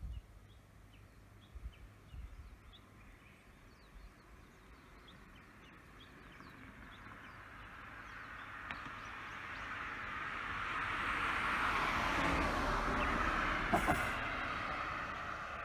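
A vehicle approaching and passing, its noise swelling over several seconds to a peak a couple of seconds before the end, then fading. Small birds chirp in the first few seconds.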